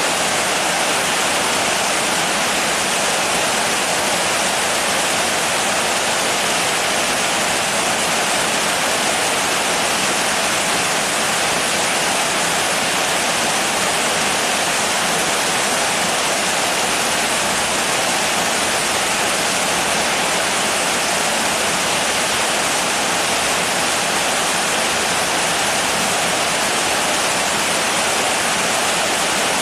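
Steady heavy rain: a dense, even hiss with no single drops or gusts standing out.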